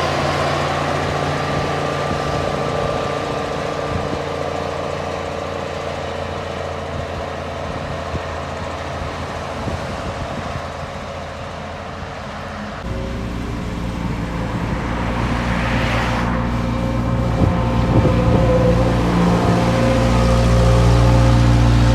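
Diesel engine of heavy construction machinery running steadily. About 13 seconds in, it switches abruptly to a louder, deeper engine note that grows stronger toward the end.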